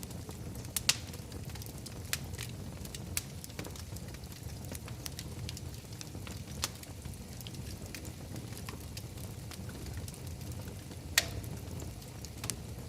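Wood fire in a fireplace crackling: a steady low rumble of flames with scattered sharp pops and snaps, the loudest about eleven seconds in.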